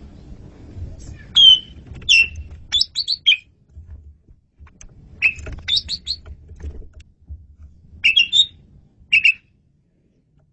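Asian pied starling (jalak suren) singing: loud, sharp whistled and chattering notes in short clusters about a second apart, with a low rumble underneath.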